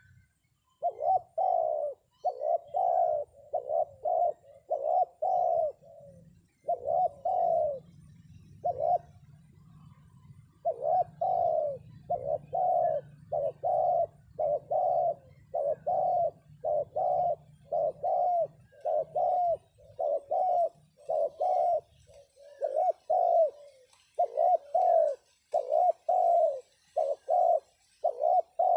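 Spotted dove (terkukur) cooing over and over in phrases of short, evenly spaced notes with brief pauses: a decoy dove calling to lure wild doves down to a trap. A low rumble runs underneath and stops about three-quarters of the way through.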